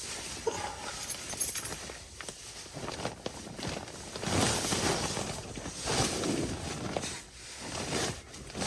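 Irregular rustling and shuffling of a person moving about and getting up, in uneven swells that grow stronger about halfway through.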